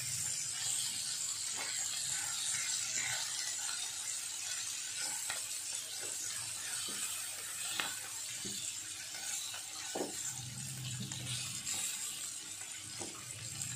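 Chicken pieces sizzling gently in butter in a frying pan, with soft scattered knocks and scrapes of a silicone spatula as the pieces are stirred and turned.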